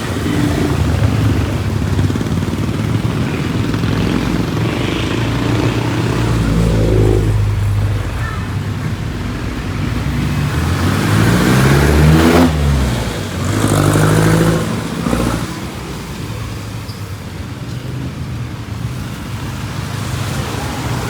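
Street traffic: motor vehicle engines running steadily close by. About halfway through, a vehicle passes close, its engine pitch rising and then falling as it goes by.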